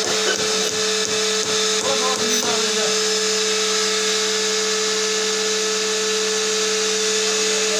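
Electric power tool motor running steadily with a steady hum, with a quick run of short knocks or taps over the first three seconds.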